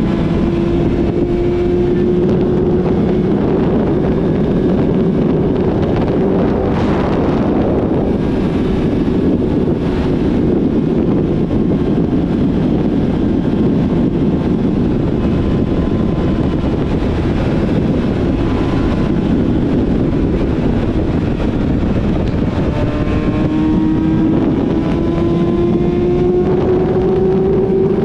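Yamaha YZF-R6 inline-four with a full-system exhaust running under way, mixed with heavy wind rush on the microphone. The engine note climbs slowly at the start and again in the last few seconds as the bike accelerates, with mostly steady engine and wind noise in between.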